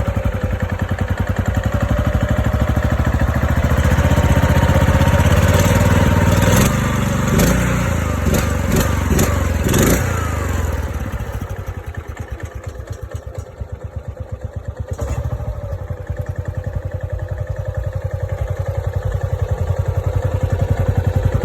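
Small single-cylinder engine of a bamboo train running after being started, revved up for several seconds with some clatter, then dropping back about halfway through to a slower, chugging idle whose separate firing beats can be heard.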